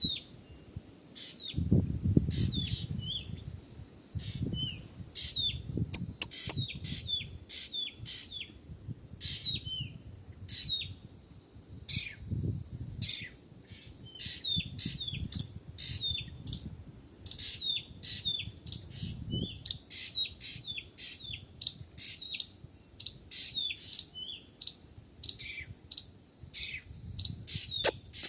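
Small birds chirping: a steady stream of short, sharp, high chirps, two or three a second, with a low rumble now and then underneath.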